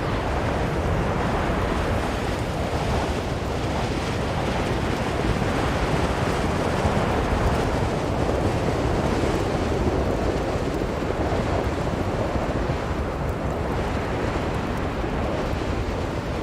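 Strong blizzard wind blowing steadily, a dense rushing noise that swells a little and eases slightly near the end.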